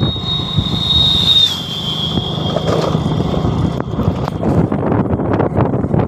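Motorcycle engine running steadily while riding, with wind noise on the microphone and short rattling clicks. A high thin whine sits above it and drops slightly in pitch about a second and a half in.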